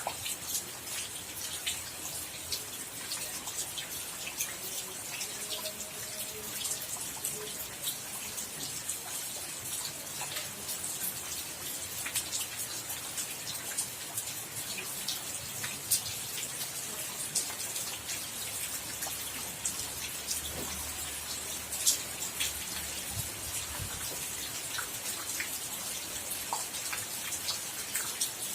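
Rain falling, a steady hiss dotted with many separate drops ticking sharply on a hard surface.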